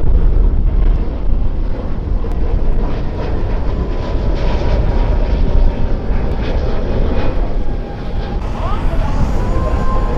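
Jet airliner engines running with a steady roar, heavy low rumble from wind on the microphone underneath, and a faint whine near the top.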